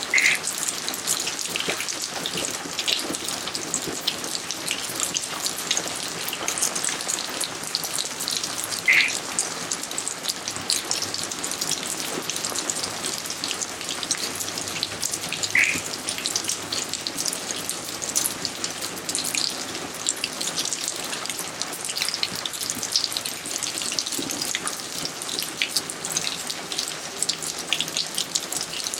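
Steady rain falling in a garden: a dense patter of small drop ticks. Three louder, brighter single drops stand out, near the start, about nine seconds in and about sixteen seconds in.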